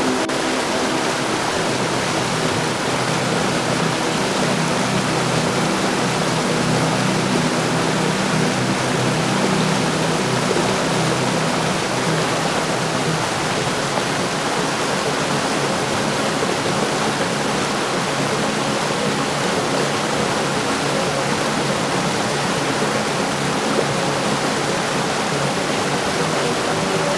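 Heavy rain falling in a steady, even downpour, with a faint steady low hum underneath and no thunder.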